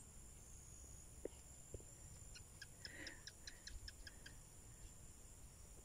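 Faint bird call: a quick, even run of about ten short high notes lasting about two seconds, over a steady high hiss.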